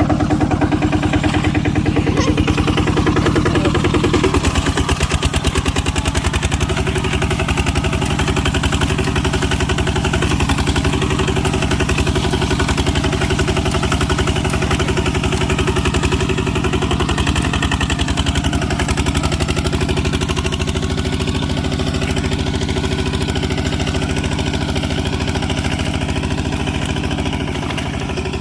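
Tractor engine running steadily with a rapid, even chugging beat; its note shifts slightly about four seconds in.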